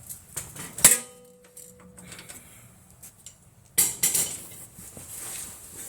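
Metal hand tools clinking and clattering. A sharp metal-on-metal clink about a second in rings briefly, and a louder clatter of tools follows around four seconds in.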